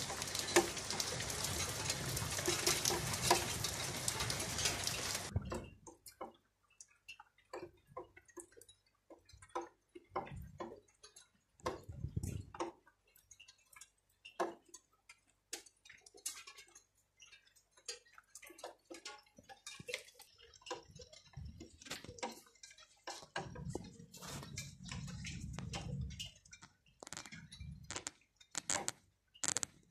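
Heavy rain falling on roof tiles and stone, cutting off abruptly about five seconds in. After that, scattered irregular water drips and ticks, with a few brief low rumbles.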